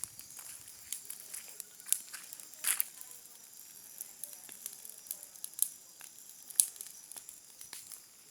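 Wood fire burning, crackling with irregular sharp pops and snaps.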